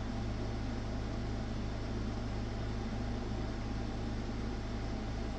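Steady low hum with an even hiss over it, unchanging throughout, like a machine or fan running.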